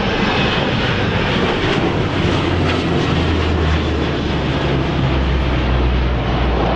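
Low pass of P-8 Poseidon and AP-3C Orion maritime patrol aircraft: a loud, steady rush of jet and turboprop engine noise over a low drone, which grows stronger about halfway through.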